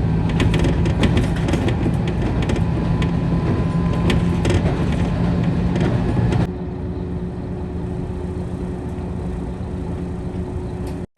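Train engine running steadily with a low drone and scattered clicks; about six and a half seconds in the sound cuts abruptly to a quieter steady hum with a held tone.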